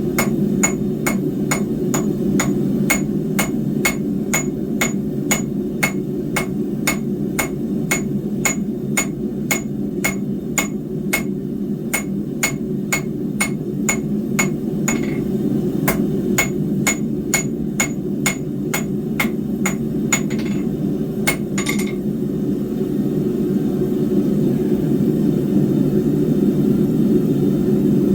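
Hand hammer striking hot 10 mm square steel bar on an anvil, about two ringing blows a second, with a short break about halfway through; the blows stop a few seconds before the end. A steady low rumble runs underneath throughout.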